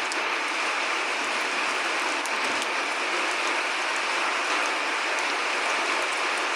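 Steady rain falling, an even hiss with scattered faint drop ticks; no thunder.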